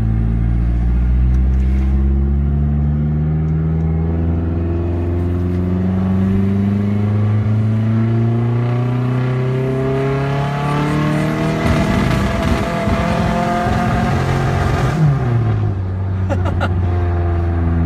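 Turbocharged Hyundai Sonata engine on an eBay turbo kit, heard from inside the car, pulling hard with its note climbing steadily as it revs up. Near the top of the pull the sound turns rough and ragged, then the revs drop sharply and settle. That roughness is typical of this untuned setup: stock ECU with bigger injectors, breaking up at around 4,500 rpm.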